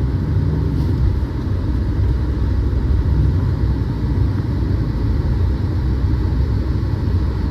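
Pickup truck driving through snow: a steady low rumble of engine and tyres.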